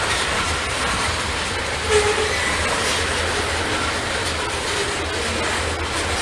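Norfolk Southern freight train rolling past, its railcars rumbling and clattering steadily over the track, with a short squeal about two seconds in.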